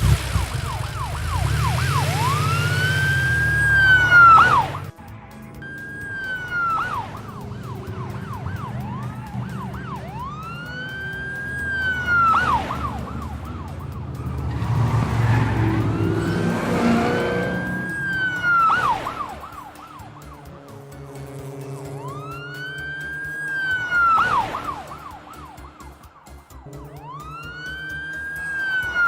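Police car siren wailing in long rising-and-falling sweeps, about one every six seconds, with a fast warbling yelp between the sweeps over a steady low drone.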